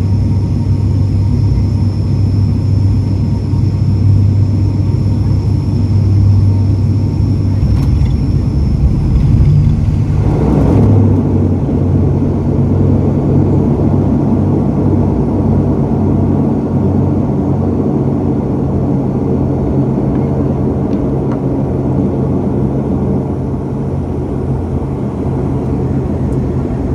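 Cabin noise of an ATR 72 turboprop: a steady propeller drone under a high engine whine that glides down and fades as power comes back. About ten seconds in a rougher rumble sets in and runs on, the wheels rolling on the runway after touchdown.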